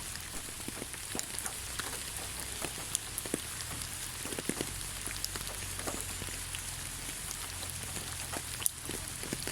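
Rain falling on the ground: a steady hiss with many individual drops ticking sharply at random.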